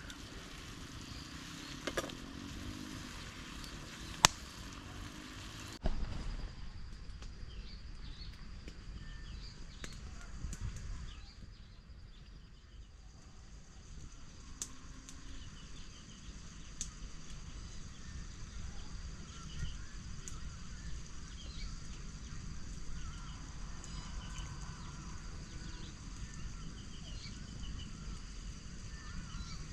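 Food sizzling in a pan over a campfire with sharp crackles, one loud crack about four seconds in. It cuts off suddenly, giving way to quieter outdoor ambience: a low rumble, a steady high-pitched drone and scattered faint chirps.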